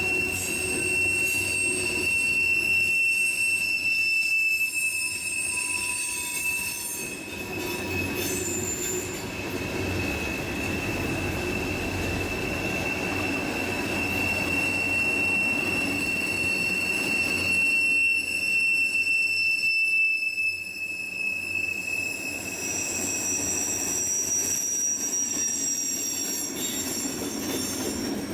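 Railroad cars rolling past with their wheels squealing: a steady high-pitched squeal held on and on, with fainter higher squeals coming and going over the rumble of the train.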